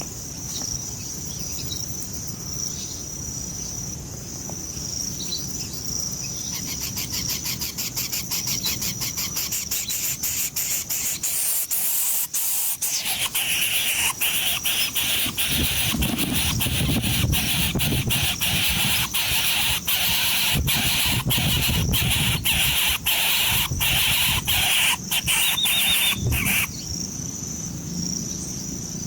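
Insects buzzing and chirping with a steady high tone. A fast, even pulsing trill sets in about seven seconds in, and a few short bird chirps come near the end.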